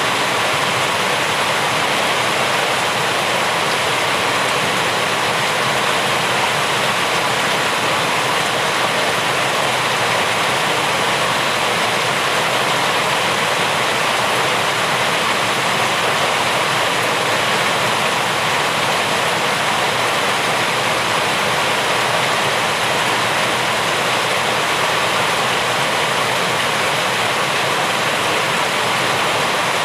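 Steady rainfall, an even hiss of falling rain that does not let up.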